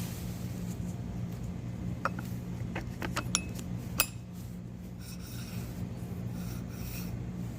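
Several sharp metallic clicks and clinks of tools or parts being handled, clustered around two to four seconds in, over a steady low hum.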